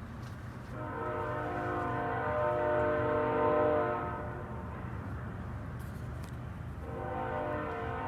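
A horn chord of several steady tones, sounding as two long blasts: the first about three seconds long, the second starting near the end. A steady low hum runs underneath.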